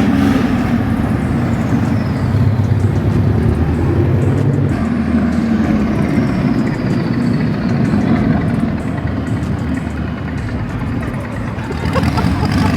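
Car engines running at low speed as cars roll along, a steady low engine noise with a faint falling whine twice.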